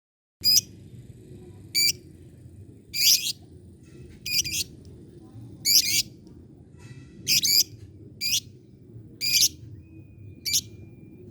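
Lovebird giving about nine short, shrill chirping calls, roughly one a second, over a steady low hum.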